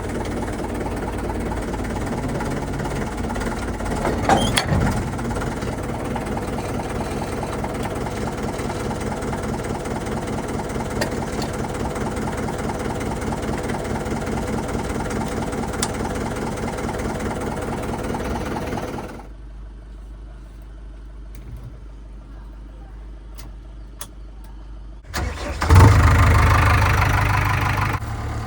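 Heavy diesel engine of earthmoving machinery running steadily, with one loud knock about four seconds in. It drops to a low rumble partway through, then near the end a diesel engine starts up loudly and settles.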